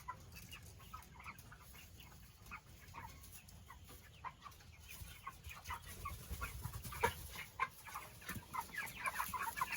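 A flock of six-week-old meat chickens clucking and peeping, with short calls scattered throughout that grow busier and louder in the second half.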